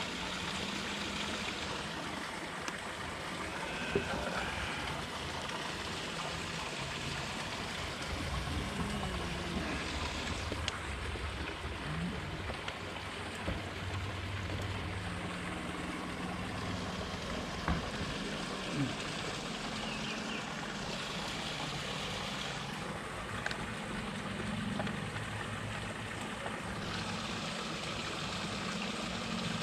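Steady open-air noise on a lake, with the low hum of a distant motorboat swelling and fading, and a few faint ticks.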